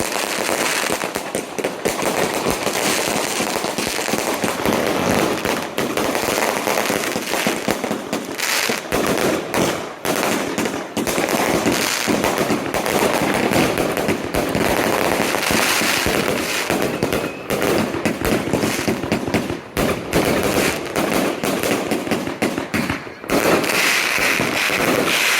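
Firecrackers going off in rapid succession, a dense, continuous crackle of sharp pops that keeps going throughout.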